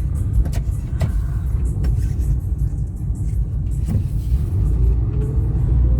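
A car driving along a rough town road: steady engine and road rumble, with a few sharp knocks.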